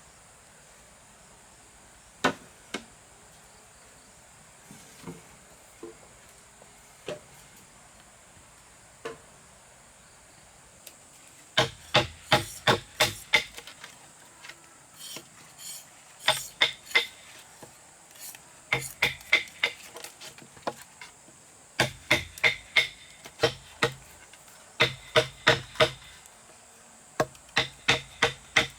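A blade chopping on wood: a few single strikes, then from about a third of the way in, repeated bursts of quick blows, five or six a second. A steady high insect drone runs underneath.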